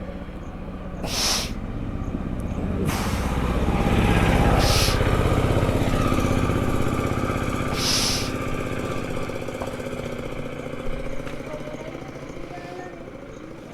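A motor vehicle's engine, swelling to its loudest about four seconds in and then slowly fading away, like a vehicle passing by. Three short hisses are heard, the last about eight seconds in.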